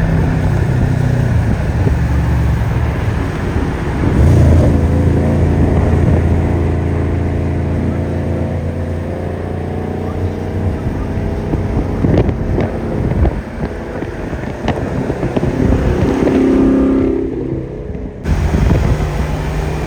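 Car engines running at speed and accelerating, with wind buffeting the microphone; the sound changes abruptly near the end.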